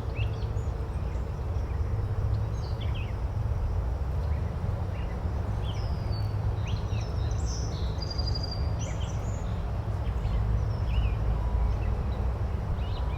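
Nature-sound ambience: a steady low rushing background with small birds chirping briefly here and there above it.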